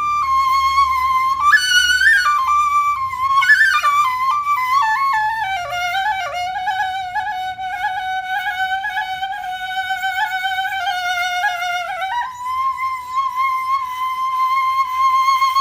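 Background music: a solo flute melody of long held notes with quick ornaments, dropping to a lower sustained note midway and then rising to a higher one, over a faint low drone.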